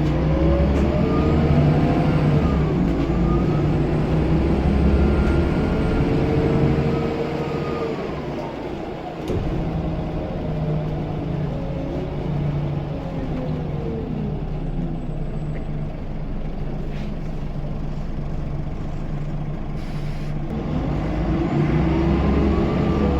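Scania L94UB bus diesel engine pulling away and accelerating, its pitch climbing and then dropping at the semi-automatic gear changes, with a faint high turbo whistle over the first several seconds. It eases off about eight seconds in, with a single sharp click soon after, runs lower and steadier for a while, then climbs again near the end.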